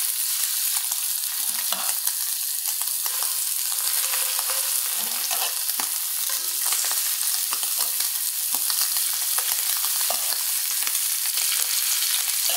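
Sea scallops sizzling steadily in smoking-hot olive oil in a cast iron skillet: the sound of a pan hot enough to sear. A few soft taps come as more scallops are set into the pan with tongs.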